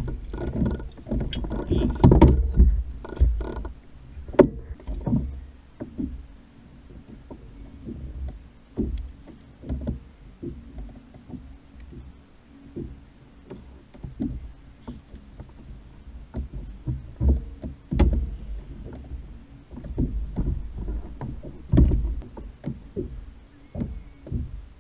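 Irregular knocks and thumps against a plastic Hobie fishing kayak as gear is handled aboard, over a low rumble that rises and falls. A faint steady hum sits underneath from about five seconds in.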